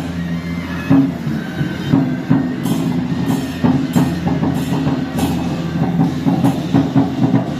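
Traditional temple procession percussion: drums and cymbals struck in a steady beat over sustained low ringing tones.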